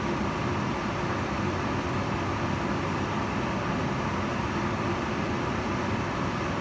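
Kitchen range hood fan running steadily: a constant whoosh of air with a low hum underneath.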